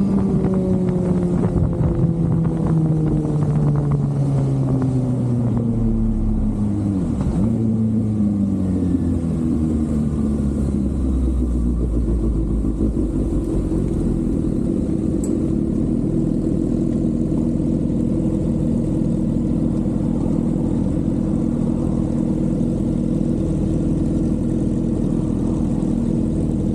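Inline-four sport motorcycle engine dropping in pitch over the first several seconds as it slows, then running at a steady lower note.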